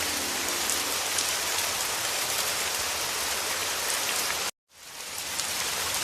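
Heavy rain falling steadily as an even hiss. About four and a half seconds in it cuts out abruptly for a moment, then fades back in.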